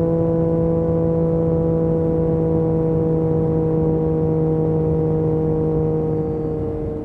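Yamaha MT-09 SP's three-cylinder engine through an Akrapovic exhaust, held at steady revs under way at speed, then easing slightly in pitch and loudness near the end as the throttle comes off.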